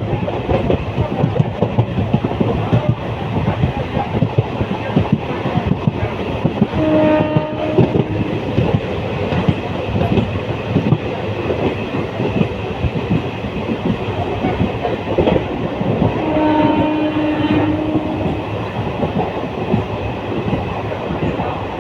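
Moving train's wheels clattering over the rails with a steady rumble. The train horn sounds twice: a short blast about seven seconds in and a longer one about sixteen seconds in.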